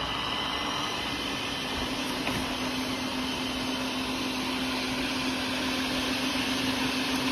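360 S6 robot vacuum running at the start of a cleaning run: a steady whir from its suction fan and brushes, with a steady low hum that sets in about two seconds in.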